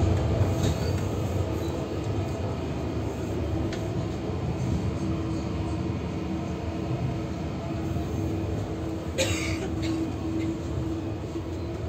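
Steady running noise of a Russian Railways double-decker passenger car in motion, heard inside the carriage, with a constant hum under it. A brief hiss about nine seconds in.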